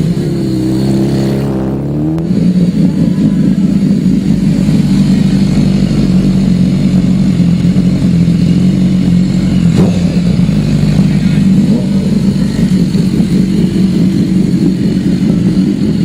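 BMW S1000RR's inline-four engine running loud at the drag strip. Its note dips and then changes abruptly about two seconds in, then holds steady.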